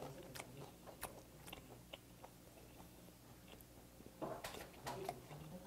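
A man chewing a mouthful of braised dried monkfish with his mouth closed: faint, soft mouth clicks, louder for a moment about four seconds in.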